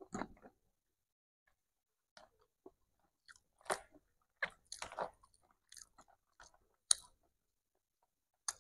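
A person chewing a mouthful of nasi padang (rice and side dishes) with soft, intermittent smacking mouth sounds, quiet and close.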